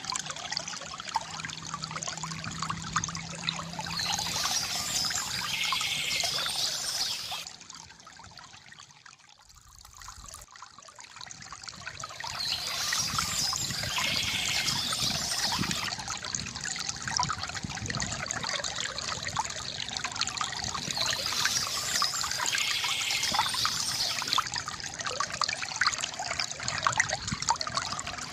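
Water trickling and splashing from a bamboo fountain, steady apart from a few seconds about eight seconds in when it drops away before picking up again.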